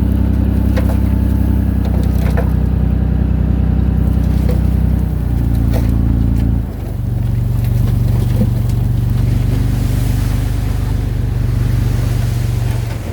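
Diesel engine of heavy earthmoving machinery running steadily, its note shifting about five seconds in and again near seven seconds, then dropping off at the very end, with occasional short metallic clanks.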